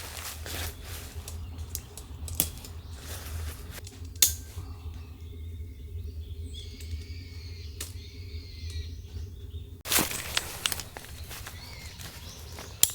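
Outdoor ambience: small birds chirping faintly through a quieter stretch in the middle, between rustling and a few sharp clicks or snaps, with rustling picking up again near the end, over a steady low rumble.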